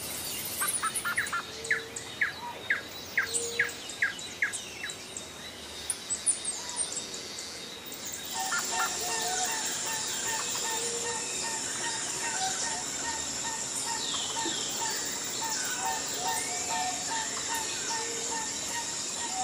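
Wild birds singing and chirping: for the first eight seconds or so, a quick series of short rising calls, about two a second. Then the soundscape changes abruptly to a steady high hiss with a short note repeated about twice a second and scattered chirps over it.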